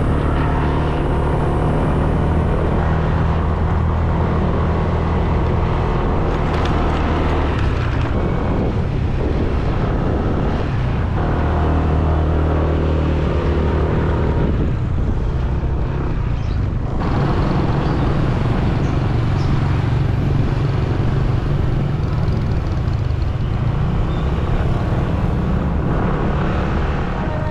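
Motorbike engine running steadily while riding, with wind blowing across the unprotected microphone.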